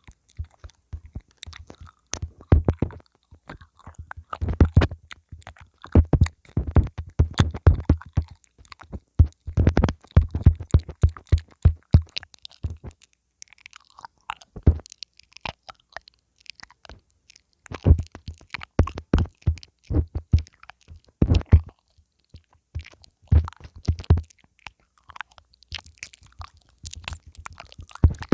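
Mouth nibbling on a lavalier pin microphone: quick runs of close, short clicks and soft thumps, in groups separated by brief pauses.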